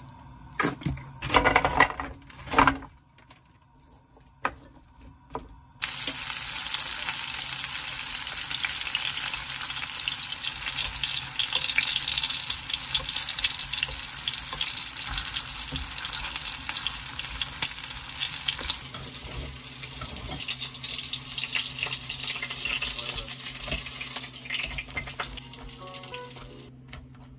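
Dumplings frying in oil in a frying pan: a dense sizzle that starts suddenly about six seconds in and dies down near the end. Before it come a few short loud knocks.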